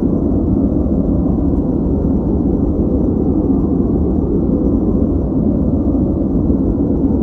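Steady, unchanging noise track used as a focus background. It is deep and muffled like a rumble, with most of its weight in the low range and almost nothing in the high range, so it sounds darker than true white noise.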